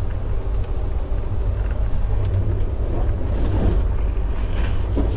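Steady low rumble of a passenger train running, heard from inside an air-conditioned sleeper coach.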